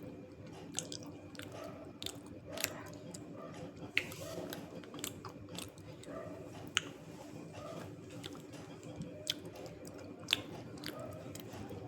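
Chewing and crunching of dry multani mitti (fuller's earth clay), with sharp cracks about once a second over softer, gritty chewing.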